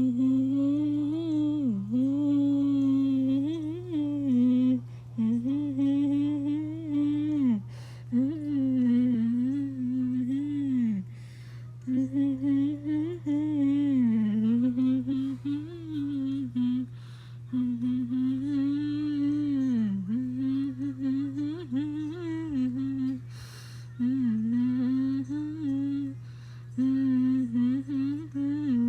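A 13-year-old humming a melody in short phrases of one to three seconds with brief breaks, the pitch gliding up and down. A steady low drone runs underneath throughout.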